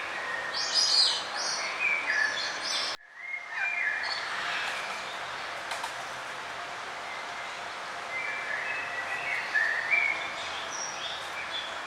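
Songbirds chirping and singing in short phrases over a steady background hiss, with a brief sudden dropout about three seconds in where the recording is cut.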